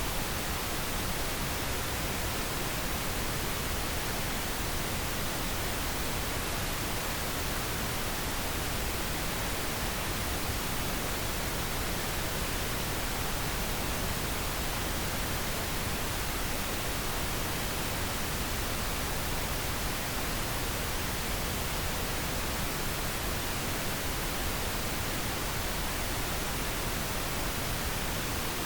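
Steady pink noise: an even, unchanging hiss across the whole range, without rhythm or change.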